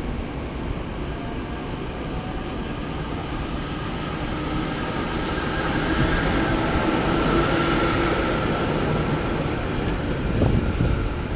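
Electric train moving along the platform tracks. It grows louder toward the middle with a steady whine, then eases off, with a brief knock near the end.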